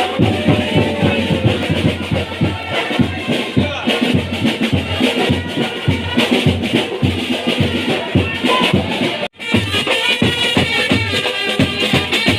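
Marching band music with a steady bass-drum beat, about two or three beats a second, under the melody. The sound cuts out for an instant about nine seconds in.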